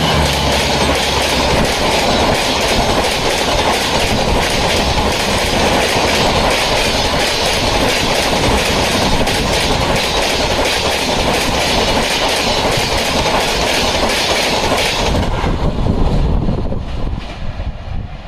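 Indian express train running past close by at speed: a loud, steady rumble and rapid wheel clatter over the rail joints, fading away over the last couple of seconds as the train clears.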